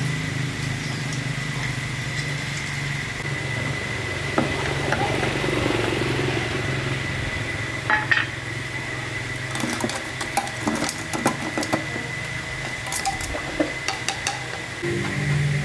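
A motor running steadily with a constant hum and a thin high whine, while light metallic clinks and taps, like tools on metal parts, come thickest in the second half.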